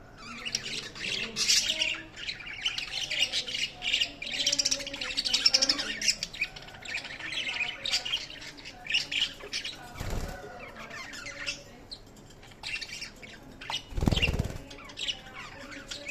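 Budgerigars chirping and squawking in busy chatter, thinning out after about ten seconds. Low thuds sound about ten seconds in and again near the end.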